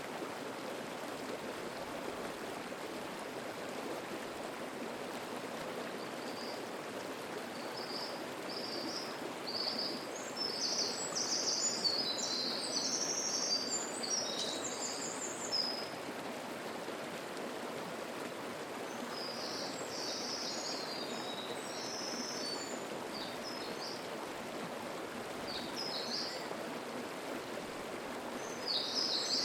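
Steady babbling of a mountain stream, with songbirds singing over it in bursts, the longest and loudest about a third of the way through and more song later on.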